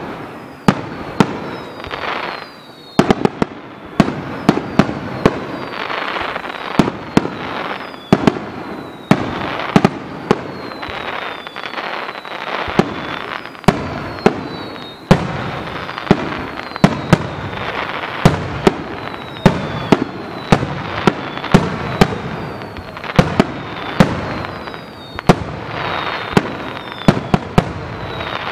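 Fireworks display: a rapid run of loud shell bursts, about one to two bangs a second, with short falling whistles and crackling between them.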